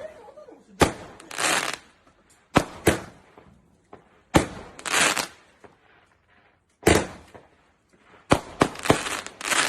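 Fireworks going off: a series of sharp bangs at irregular intervals, several followed by about half a second of crackling hiss, with a quick run of bangs near the end.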